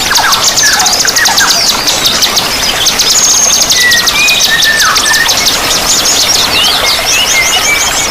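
A dense chorus of many small songbirds singing at once: rapid high chirps and trills with slower whistled notes lower down. Beneath them runs a steady hiss of flowing water.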